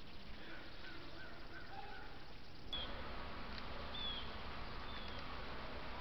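Faint wild bird calls: a run of five short, evenly spaced notes, then a few short, high, falling chirps. A louder steady hiss of outdoor ambience comes in about halfway.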